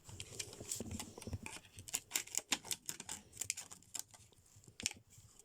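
Packaging being handled and pulled at while a plastic toy egg is worked out of its box: irregular clicking and crackling, busy at first and thinning out, with one sharper click near the end.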